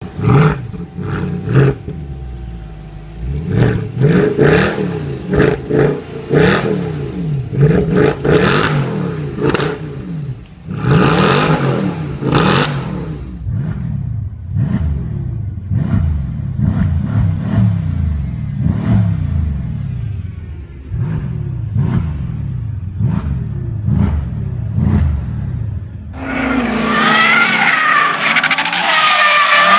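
Mercedes-Benz C63 AMG V8 exhaust, revved up again and again and dropping back, with sharp cracks between the revs. About 26 seconds in, tyres squeal loudly over the engine as the car drifts.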